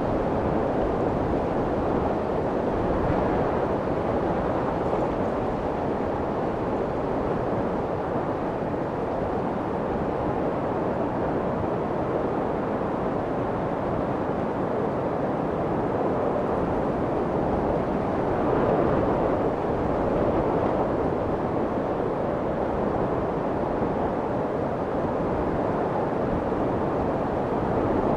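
Steady white noise for soothing a baby: a deep, muffled rushing hiss that swells and eases gently now and then.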